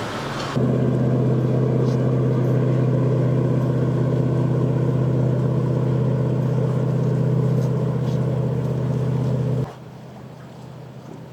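Boat engines running with a steady low drone that starts abruptly about half a second in and cuts off abruptly near the end.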